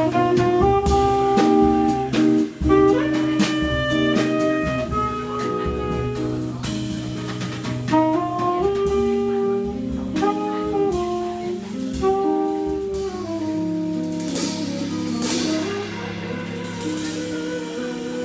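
Jazz trio playing: a tenor saxophone plays a melody over guitar and drum kit. Cymbals swell for a few seconds near the end.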